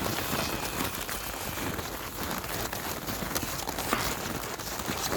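Horse's hooves crunching and creaking on packed snow in a run of uneven steps.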